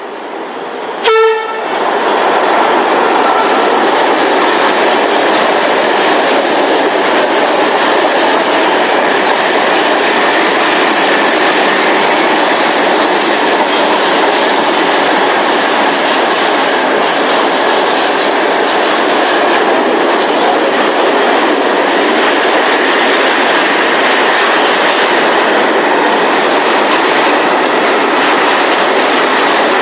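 A short train horn blast about a second in, then a train passing close by with loud, steady wheel and rail noise.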